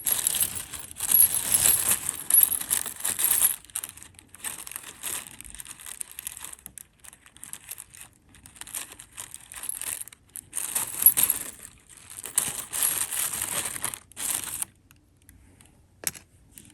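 A plastic bag crinkling as it is handled, with light metallic clinks of costume jewelry, in several bursts with short pauses between.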